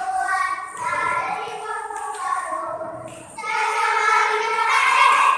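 Children's choir singing in unison, dropping briefly about three seconds in and then coming back louder.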